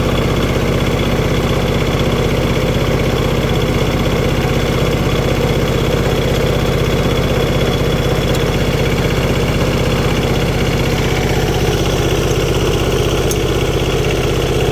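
Diesel tractor engine idling steadily, running again after its fuel system has been bled of air.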